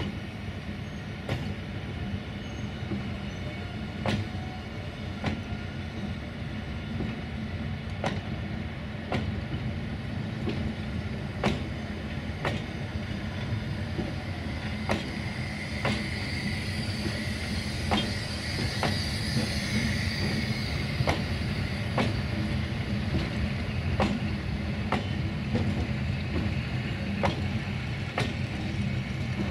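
A train of ÖBB class 1014 electric locomotives rolling slowly past, with a steady rumble and wheels clicking over rail joints about once a second. A wheel squeal rises in the middle and fades again.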